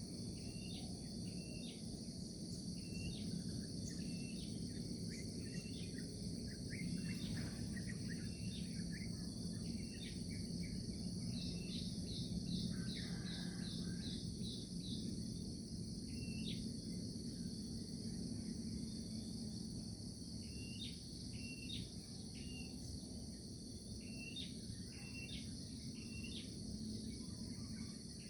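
Morning outdoor ambience: a steady chorus of insects buzzing, with birds chirping in short repeated calls throughout and a quick trill of rapid notes about halfway through. A low steady rumble runs underneath.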